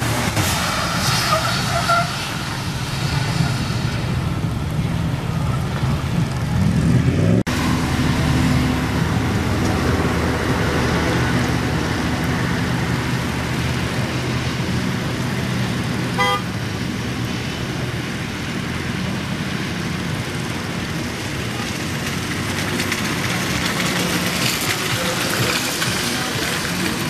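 Car engine running and revving, its pitch rising about seven seconds in, with one short horn toot midway.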